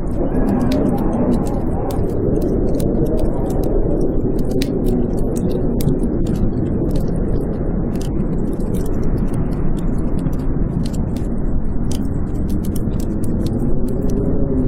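Blizzard wind howling with a steady rush and a pitch that wavers up and down, over a wood fire's many small sharp crackles and pops.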